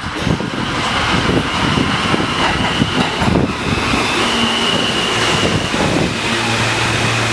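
New York City subway R160 train at the platform: rumbling with rapid wheel clicks for the first few seconds, then a steady high whine from about halfway, joined near the end by a steady low electrical hum.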